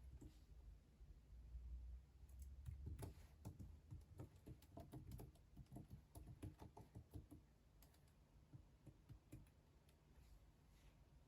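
Faint typing on a computer keyboard: a run of quick keystroke clicks starting about two seconds in, thickest in the middle, and thinning out to a few scattered clicks before stopping near the end.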